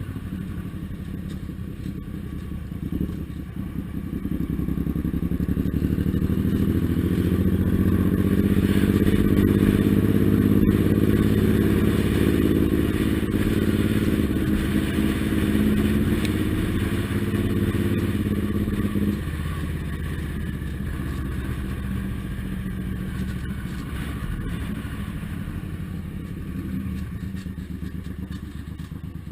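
Suzuki Intruder M1800R's V-twin engine running under way. It grows louder a few seconds in and holds strong, then drops back suddenly about two-thirds of the way through and runs on more quietly.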